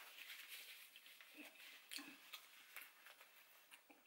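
Faint chewing: soft, irregular mouth clicks of someone eating with the mouth closed.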